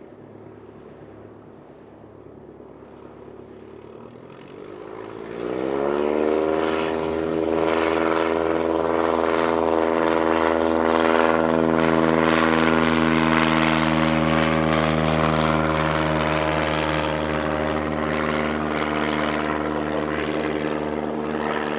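Cessna 172M Skyhawk's four-cylinder Lycoming engine and propeller running quietly near idle, then throttled up to full takeoff power about five seconds in: the pitch rises quickly and the sound grows much louder, then holds steady at full power for the takeoff roll.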